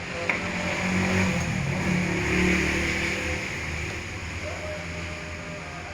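A motor vehicle passing by: its engine noise swells to a peak about halfway through, then fades.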